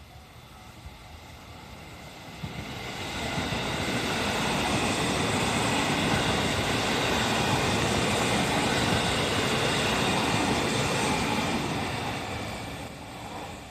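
JR 313 series electric multiple unit passing over a level crossing at low speed: its running noise builds over a couple of seconds, holds steady for about eight seconds, then fades away near the end.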